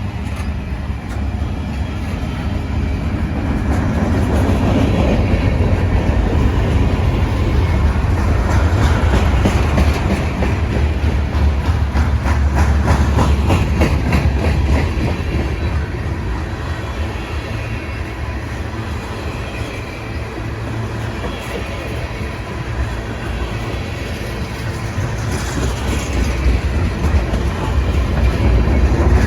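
Freight train rolling past with a steady rumble and the rapid clickety-clack of its wheels over the rail. It is loudest in the first half and swells again near the end.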